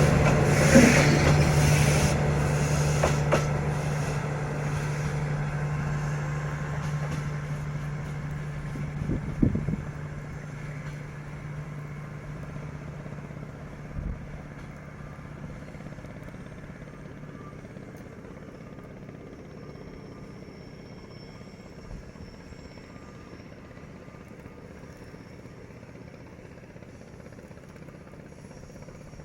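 D19E diesel locomotive and its train going away, the steady engine hum fading out over about ten seconds and leaving a faint background with a few scattered knocks.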